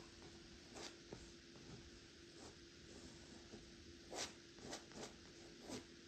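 Brush or knife stroking paint onto a canvas: about six short, quiet scraping swishes, the loudest a little past the middle, over a faint steady hum.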